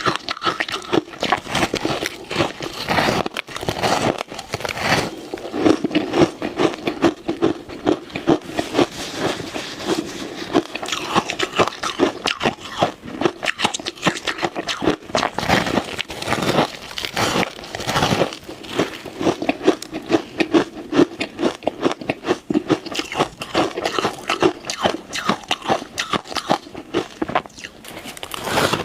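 Close-miked biting and chewing of ice: a dense, continuous run of crisp crunches and crackles.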